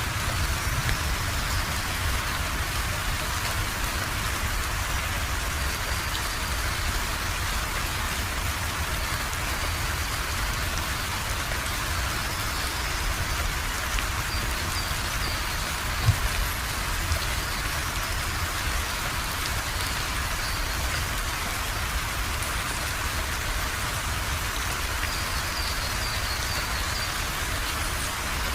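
Steady rain falling, an even hiss of drops with a low rumble underneath. A single sharper tap about halfway through.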